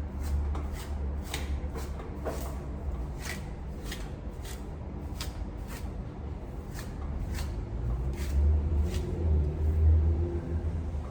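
Comb being drawn through wet natural hair: short scratchy strokes, about two a second, over a steady low rumble.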